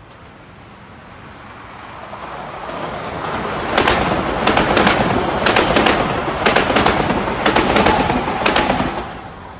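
Metro-North M8 electric multiple-unit train approaching and passing close by. Its noise builds over the first few seconds, then its wheels click over rail joints in pairs about once a second as the cars go by. The sound fades near the end.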